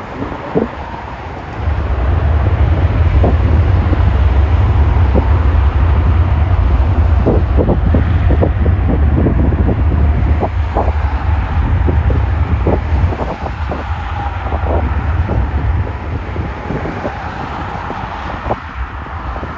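Strong wind buffeting the camera's microphone: a heavy low rumble that comes up about two seconds in and eases off near the end, with scattered knocks from gusts hitting the mic.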